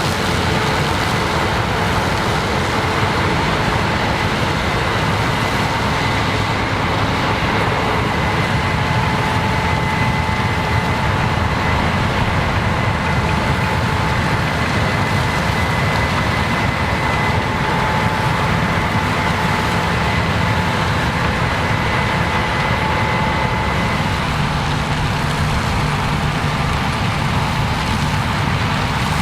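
Heavy harvest machinery, combines and tractors, running steadily at work in a corn field: a loud, even engine and machinery noise with a faint high whine that fades out near the end.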